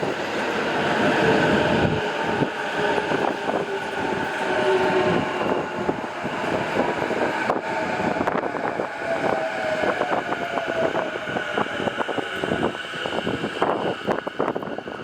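A JR East E233 series electric train pulls into the station. Its motor whine slowly falls in pitch as it slows, and the wheels clatter over rail joints with clicks that come more often in the second half.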